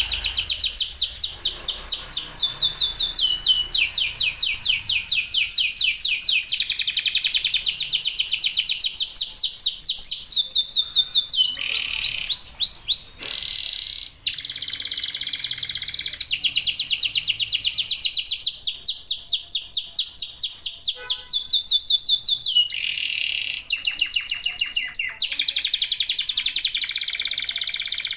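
Canaries singing vigorously in long, fast rolling trills of rapid high notes. Each trill runs a second or more before the song switches to another, with a short break about 14 seconds in.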